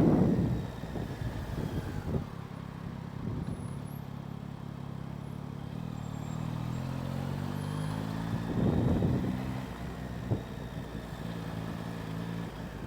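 Motorcycle engine running at low city-traffic speed, picked up by a microphone on the rider's helmet; its pitch shifts up and down through the middle as the speed changes, with a louder stretch about nine seconds in.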